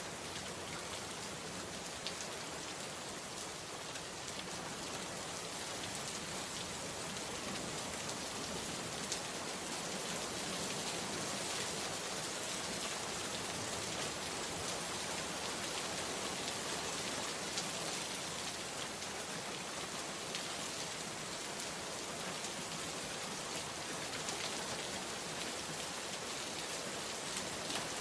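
Steady rain falling, a dense even hiss of drops on surfaces with scattered individual drop ticks.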